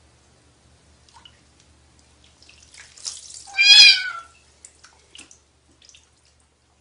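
A kitten meows once in bathwater, a short call about halfway through whose pitch dips at the end. Water splashes just before it, and a few small splashes and drips follow.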